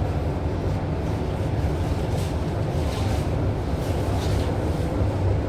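Tangara electric train running at speed, a steady low rumble heard from inside the carriage.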